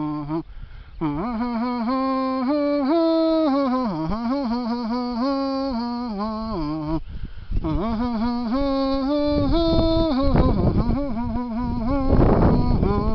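A person humming a slow tune in long held notes that step up and down in pitch, with short breaks about a second in and again about seven seconds in. Wind buffets the microphone with a low rumble over the last few seconds.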